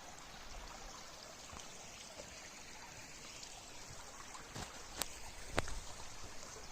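Shallow stream water running and trickling over rocks, a steady soft rush, with three sharp knocks in the second half, the last the loudest.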